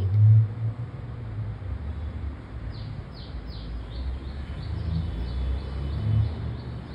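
A small bird chirps over and over from about three seconds in, short falling notes about two or three a second. Under it runs a low rumble of bumps from handling at the table, loudest right at the start and again about six seconds in.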